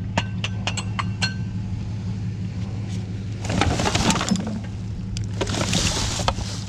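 Scrap being handled: a quick run of sharp clinks with short ringing tones in the first second or so, then two stretches of scraping and rustling. Underneath runs a steady low engine hum.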